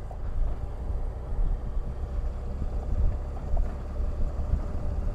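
BMW F800GS parallel-twin motorcycle engine running, heard as a steady, uneven low rumble.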